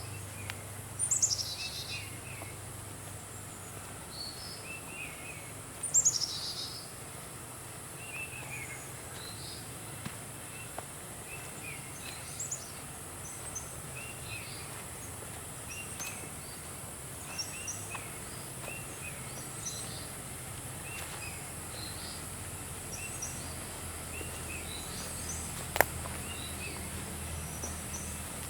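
Tropical forest birds calling: many short repeated chirps, with two louder calls that slide down in pitch about a second in and around six seconds, over a steady high insect hiss. A single sharp click near the end.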